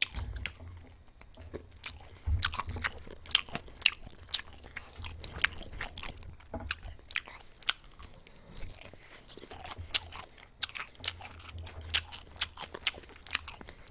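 Close-miked chewing and biting of baked cheese chicken held by hand: a scattered run of sharp crunches and wet mouth clicks.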